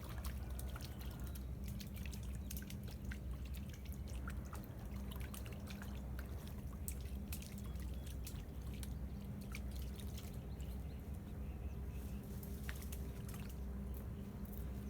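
Water lapping and dripping at the edge, a scatter of small sharp ticks and splashes, over a steady low hum.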